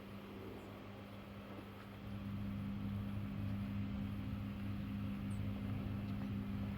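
A steady low mechanical hum that gets louder about two seconds in.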